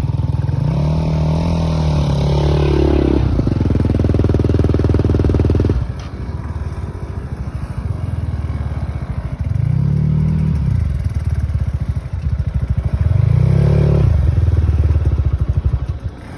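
Enduro motorcycle engine running and revving. Its pitch rises and falls about a second in, then holds high before dropping sharply near six seconds. It is revved up twice more before dropping off near the end.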